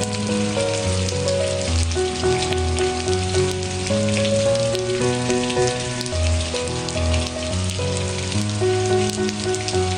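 Steady rain with pattering drops, mixed with soft background music of held notes that change every half second or so.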